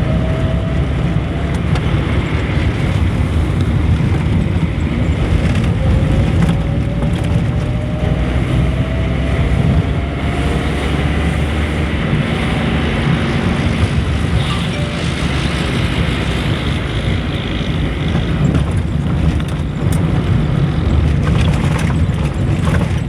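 Vehicle running along a road, filmed from on board: a steady low engine rumble with road and wind noise. A faint whine rises slowly in pitch twice, near the start and about six seconds in.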